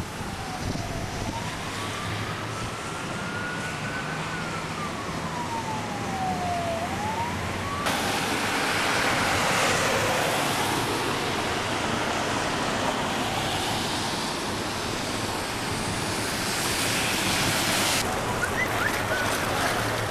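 A siren wailing slowly, its pitch rising and falling once over a few seconds, over a steady rushing noise. It breaks off abruptly about eight seconds in, leaving the rushing noise louder.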